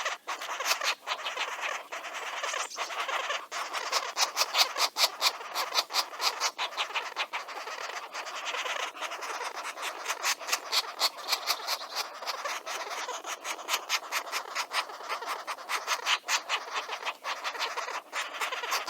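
Rapid, irregular scratchy clicks and rustling, with high chirping from birds at a nest.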